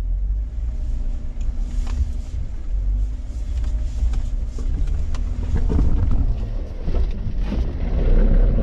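A 2012 Jeep Wrangler JK's 3.6-litre V6 engine running steadily, under a heavy low rumble of wind on the microphone.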